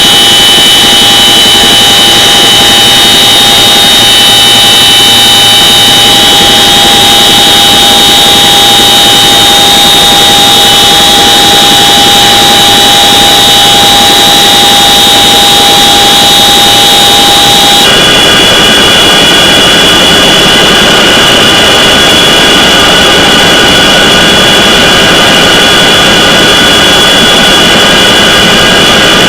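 CH-47 Chinook twin-rotor helicopter running close by: a loud, steady turbine whine with several high-pitched tones over a rushing noise. The tones shift abruptly about 18 seconds in.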